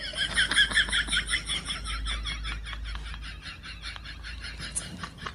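A small animal making a fast, even series of short high chirps, about six a second, that grow fainter.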